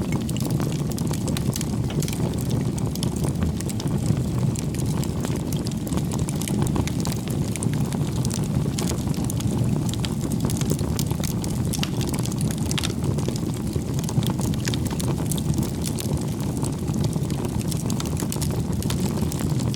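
Bonfire burning: a steady low rumble of flames with many small sharp crackles and pops of burning wood throughout.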